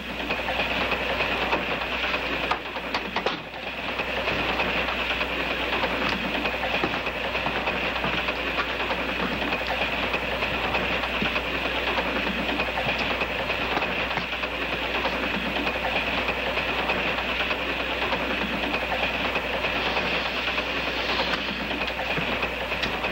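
A passenger train running along its rails, heard from inside the carriage as a steady rolling noise, with a brief lull about three seconds in.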